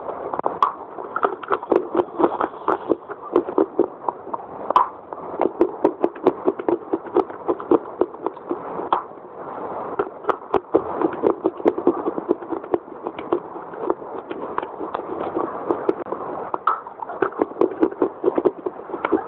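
Close-miked chewing of a crunchy biscuit: a fast, dense run of small soft crunches and wet mouth clicks that goes on without a break.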